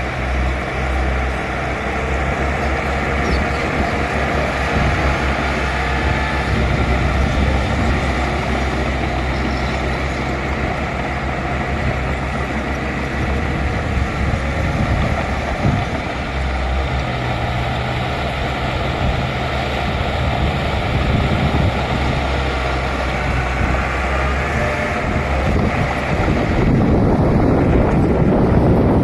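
Bulldozer's diesel engine running steadily under load, its pitch shifting now and then, growing louder and rougher near the end.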